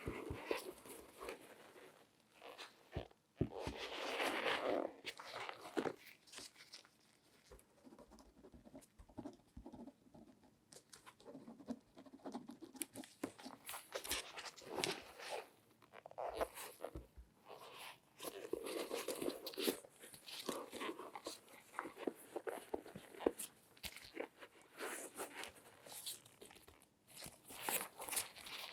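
Latex-gloved hands handling objects close to the microphone: irregular rustling and crinkling with scattered light taps and clicks, in several denser bursts.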